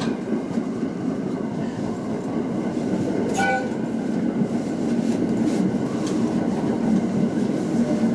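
Local passenger train running on the rails, heard from the front of the train: a steady rumble of wheels on track, with a short ringing click about three and a half seconds in.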